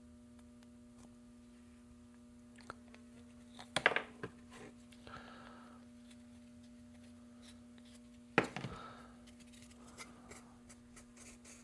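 Bench handling of body-filler tools: two sharp clicks about four seconds apart, each followed by a short scraping rustle, over a steady low electrical hum.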